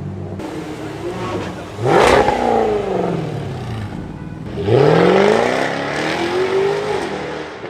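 Jaguar F-Type R Coupe's supercharged 5.0-litre V8 accelerating hard: a sudden loud burst about two seconds in whose pitch falls away, then a second burst near five seconds in with the engine note climbing steadily for about two seconds.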